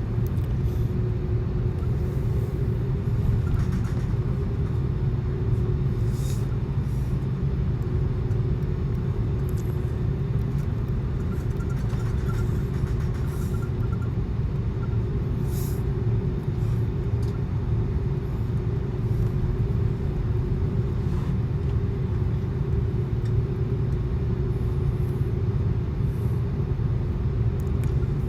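Cabin noise inside an Airbus A330-200 airliner: a steady low rumble of the engines and airflow with a constant hum, and a few faint light rattles.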